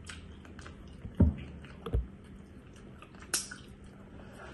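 Close-up chewing and wet mouth smacks of a person eating, with two dull thumps about one and two seconds in and a sharp click later on.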